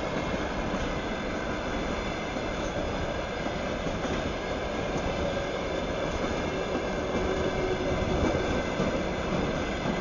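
Freight train of open wagons rolling past: a steady rumble of wheels on rails, growing a little louder near the end.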